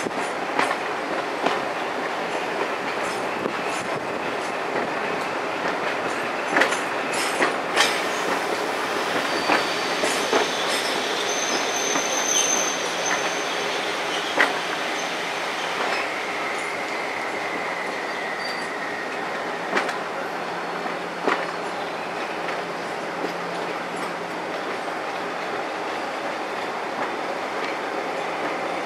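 Passenger coach running along the line, heard from an open coach window: a steady rumble of wheels on rail with scattered sharp clicks. Brief high wheel squeals come in near the middle, followed by a slowly falling squeal.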